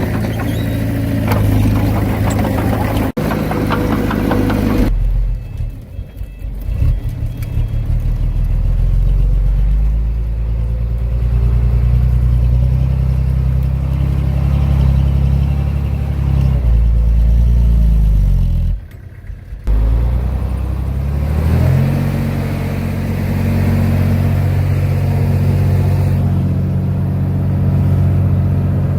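Heavy diesel engine of earthmoving machinery running under load, its pitch rising and falling as it works. The sound changes abruptly about 5 seconds in and drops out briefly near 19 seconds.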